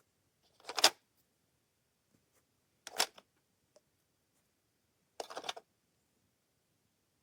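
Three short rustling scrapes about two seconds apart, the first the loudest: the cardboard box and packaging of a toy set being handled.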